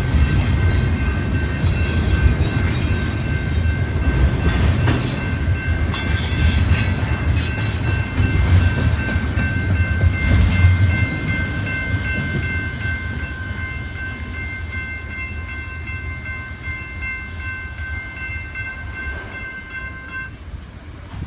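Train passing a railroad crossing: heavy low rumble of the rolling cars, with screeching wheel squeal in the first half. The sound fades gradually from about halfway as the train moves off, and a steady high ringing tone under it cuts off shortly before the end.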